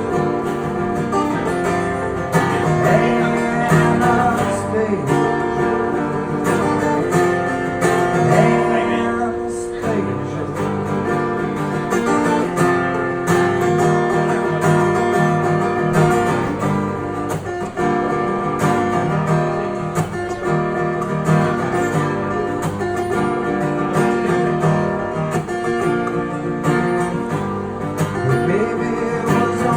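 Acoustic guitar strummed steadily through an instrumental break between sung lines of a song.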